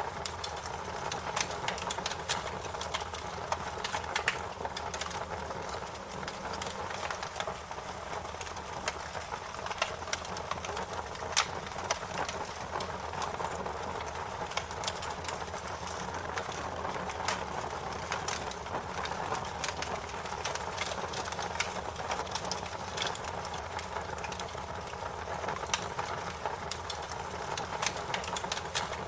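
Wood fire crackling: a steady hiss and rumble of flames with frequent irregular sharp pops and snaps.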